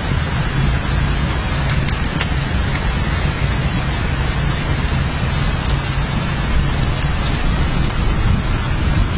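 Steady heavy rain falling, with a constant deep low rumble underneath and a few sharp drip ticks scattered through.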